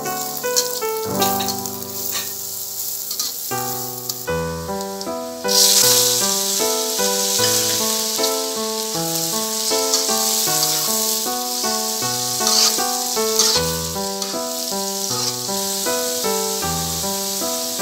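Food frying in a wok over background music: chopped onion sizzles under a few metal spatula clicks and scrapes. About five seconds in, squid pieces go into the hot pan and the sizzle turns suddenly much louder and stays loud as they are stirred.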